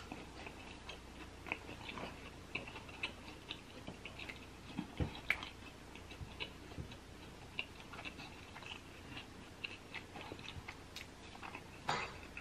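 A person chewing a mouthful of food with the mouth closed: soft, irregular wet clicks and smacks, several a second.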